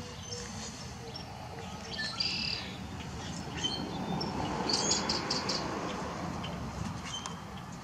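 Songbirds chirping, with scattered short high calls over a rushing background that swells in the middle and fades again.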